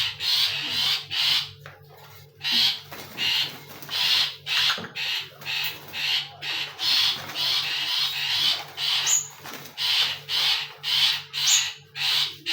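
A bird giving harsh, noisy calls, repeated about twice a second with a short break near two seconds in.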